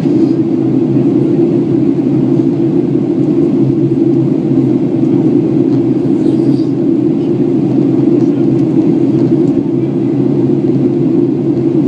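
Steady in-flight cabin noise of a Boeing 737-800: the drone of its CFM56 turbofan engines and the rush of air past the fuselage, heard from inside the passenger cabin. It stays even throughout.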